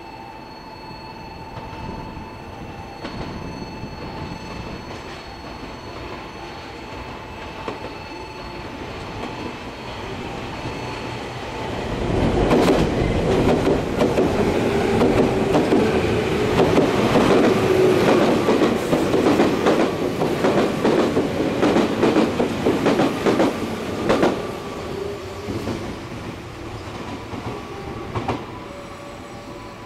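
A train passing the station. It builds for about twelve seconds, then its wheels clatter loudly over the rail joints for about twelve seconds before it fades away.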